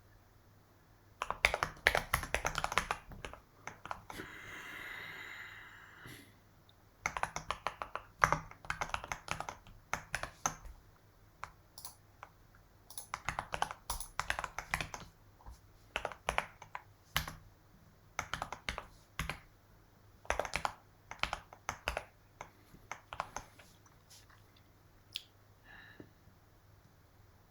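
Typing on a computer keyboard: quick runs of key clicks broken by short pauses. About four seconds in there is a smooth hiss of about two seconds.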